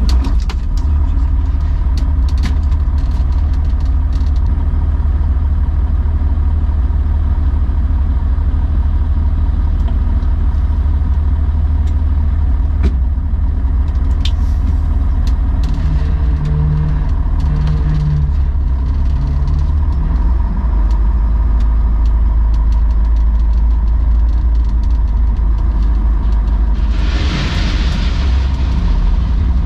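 Diesel engine of a Tatra Terrno1 6x6 tipper truck running steadily with a deep, even rumble. Near the end comes a short burst of hiss, and a few light clicks sound along the way.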